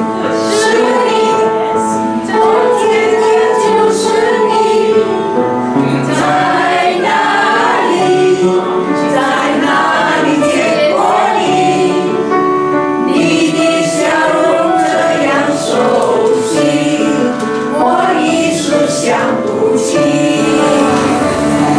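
A choir singing a song, many voices holding notes together.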